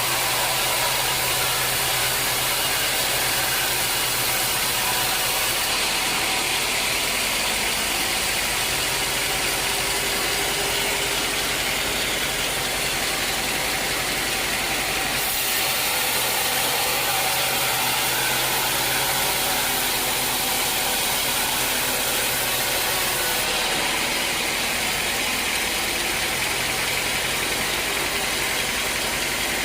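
Sawmill machinery running with a steady engine drone and a dense hiss; its character shifts slightly a few times.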